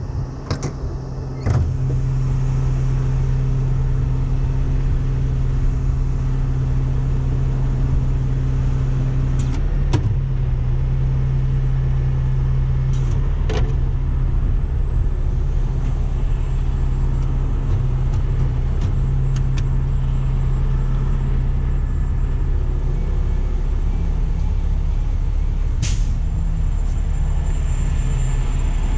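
Tow truck engine running at raised speed to power the winch through the PTO: a steady low drone that comes up about a second and a half in and lifts slightly in pitch later on. A few sharp clicks sound over it.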